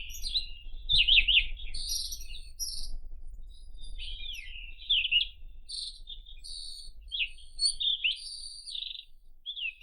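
White-throated robin singing: a fast, varied run of whistled notes, quick up-and-down pitch sweeps and short scratchy trills, with only brief gaps between phrases.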